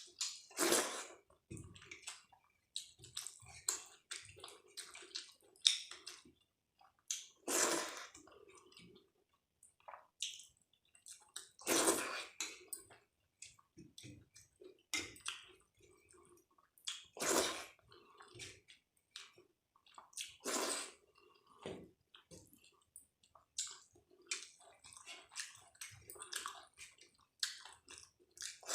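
Close-miked eating sounds: wet chewing of rice and daal, with small clicks and smacks and a louder squelch every few seconds.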